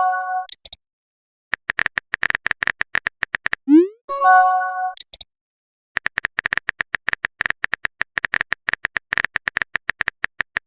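Runs of rapid typing clicks alternating with a messaging-app sound: a short rising swoop, then a brief synthesized chime. A chime closes the first moment, typing runs for about two seconds, the swoop and chime come just under four seconds in, and typing starts again about six seconds in.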